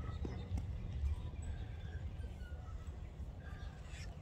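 Birds chirping in scattered short calls over a steady low rumble.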